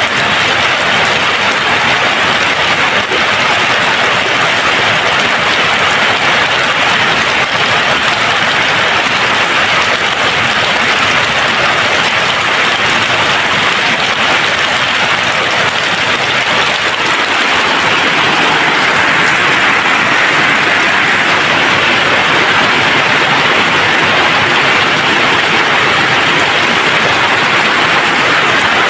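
Steady rain falling, a dense even hiss of drops with no thunder.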